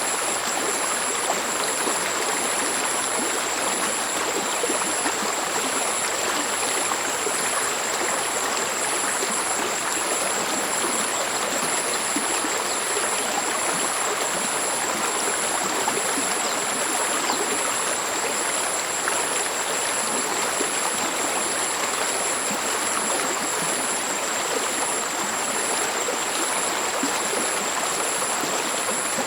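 Mountain stream flowing and murmuring steadily over rocks, an even rush of water. Two faint steady high-pitched tones sound above it throughout.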